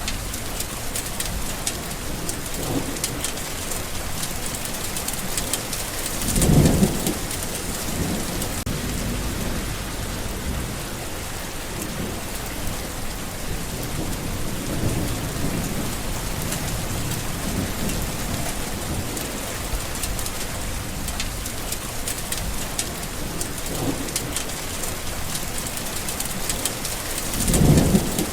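Steady heavy rain falling, with low rolls of thunder rumbling through it; the two loudest rolls come about six seconds in and near the end.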